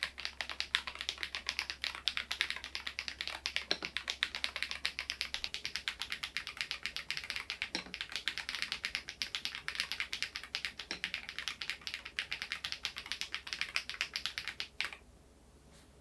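Steady, fast typing on the SMURVE80 mechanical keyboard's switches alone, without its solenoid module, a dense run of key clicks with a deeper, heavier stroke every few seconds. The typing stops abruptly about a second before the end.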